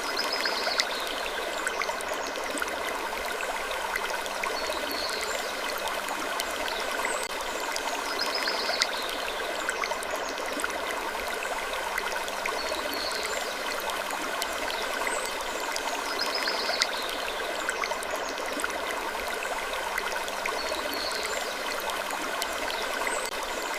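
Looped sleep ambience of gentle wood creaking: a steady rushing hiss with faint, similar high creaks every few seconds.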